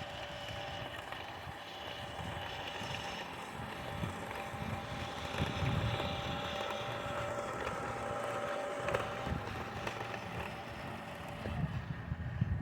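Radio-controlled truck's small electric motor and gearbox whining steadily at a few fixed pitches, over an uneven low rumble.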